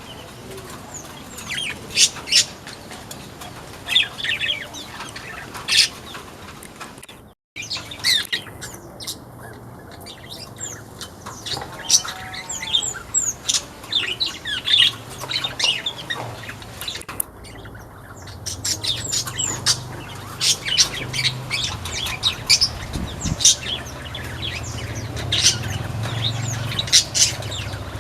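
Manyar (weaver birds) chirping in an aviary: many short, sharp calls scattered through, over a low steady hum.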